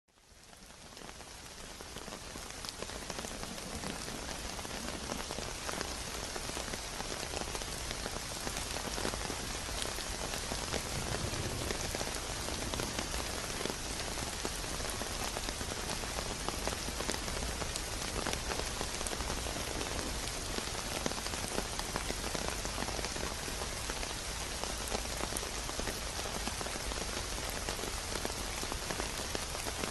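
Steady heavy rain falling on a surface, a dense hiss full of individual drop ticks, fading in over the first couple of seconds.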